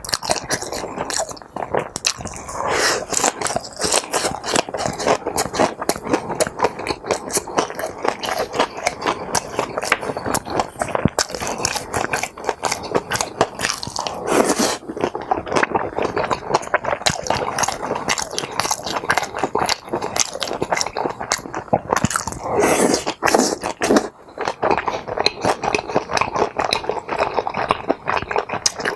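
Close-miked mouth sounds of someone eating tteokbokki and kimbap: wet, sticky chewing and biting as a steady run of irregular clicks, with a few louder, longer mouth sounds at about 3, 14 and 23 seconds.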